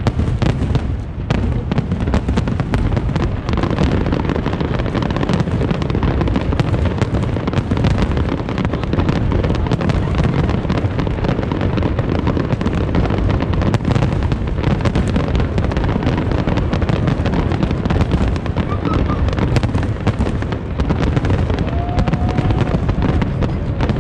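Large fireworks display in a dense barrage: many booms and crackles overlap without a break into one steady rumble.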